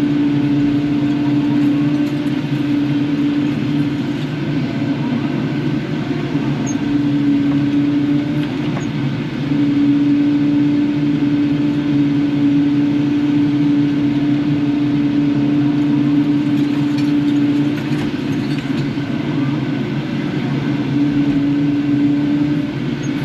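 Kubota KX080-4 excavator's diesel engine running steadily at working speed, with a steady hum that drops out and comes back a few times.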